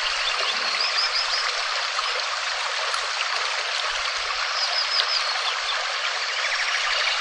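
Steady hiss of falling rain, even throughout. Faint, short chirping calls sound over it a few times.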